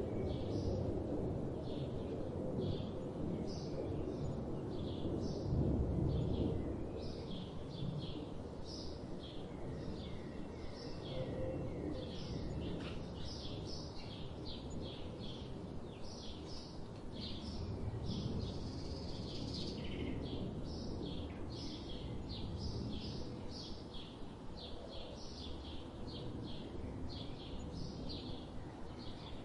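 Forest ambience: many small birds chirping and calling in quick, repeated notes, over a low rumble that is strongest in the first few seconds and swells again midway.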